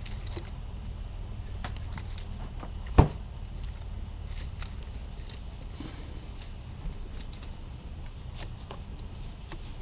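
A steady, thin, high insect drone over a low rumble, with small handling clicks and one sharp knock about three seconds in.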